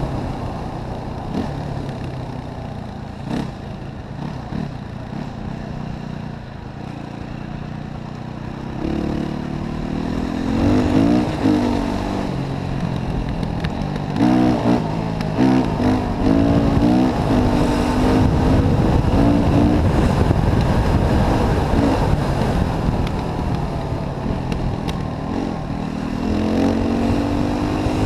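Yamaha WR450F single-cylinder four-stroke enduro motorcycle engine running at low revs for the first several seconds, then revving up and down repeatedly under throttle as the bike is ridden.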